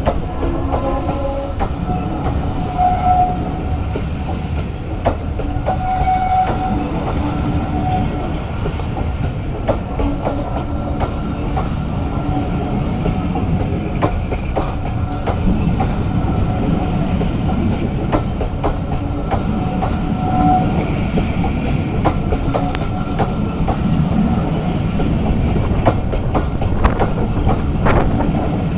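A train running on the track: a steady low rumble with wheels clicking over rail joints throughout.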